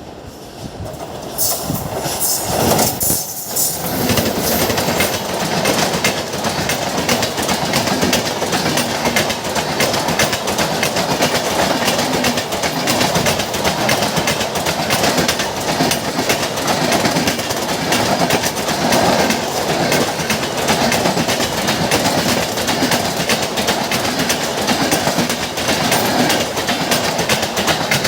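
Train passing at restricted speed, its wheels clicking steadily over rail joints. The sound builds over the first two seconds, then holds.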